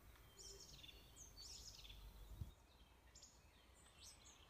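Faint, short high chirps from small birds, several quick downward-gliding calls, with a soft low thump about halfway.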